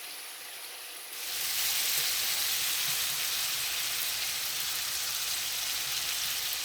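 T-bone steaks sizzling in butter in a frying pan, a steady hiss of fat. It is fainter for about the first second, then jumps louder and holds steady.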